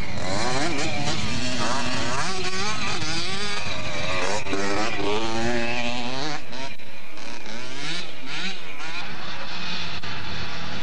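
Several motocross bikes revving hard, their engine notes rising and falling quickly and overlapping one another.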